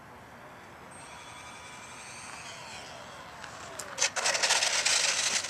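Engines of a radio-controlled Airbus A380 model whining as it flies past, several high tones sliding down in pitch, then a loud rushing, fluttering noise about four seconds in as it comes close.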